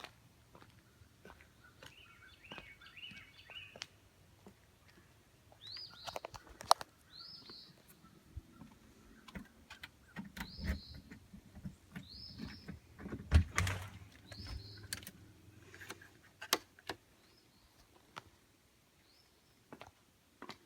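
Birds chirping outdoors in short, repeated high calls, with a quick run of lower notes a couple of seconds in. Scattered clicks and a few low thuds come through; the loudest are two sharp knocks, one about a third of the way in and one past the middle.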